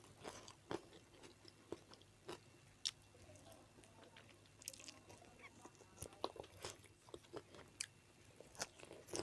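Close-miked chewing of food: soft, irregular mouth clicks, smacks and crunches, several every second.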